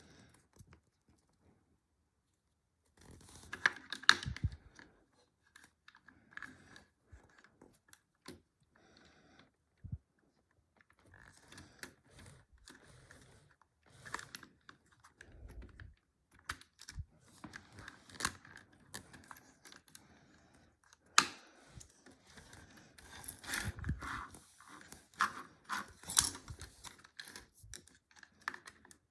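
Plastic LEGO bricks clicking and rattling as they are handled and pressed together, in short irregular bursts of clicks, starting a few seconds in.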